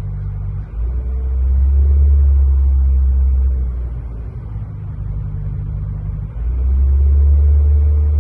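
Nissan car engine running with a newly replaced throttle body during a throttle idle relearn. Its low hum gets much louder twice, each time for about three seconds, then settles back.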